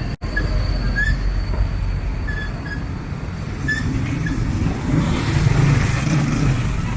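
Steady low rumble of a moving vehicle, growing somewhat louder and noisier after the midpoint, with a few short high chirps over it.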